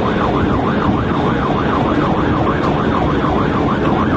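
Police car siren on a fast yelp, sweeping up and down about three times a second, over steady engine and road noise from the cruiser at highway speed.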